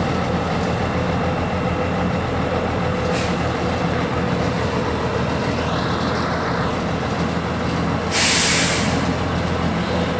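Heavy diesel engines of a combine harvester and a loaded Scania 124 truck running steadily as the combine tows the truck through mud. About eight seconds in, a loud hiss lasts about a second.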